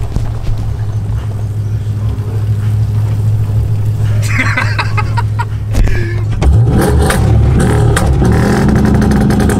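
A car engine running with a steady low rumble; about six and a half seconds in it gets louder and revs up, settling on a higher steady note.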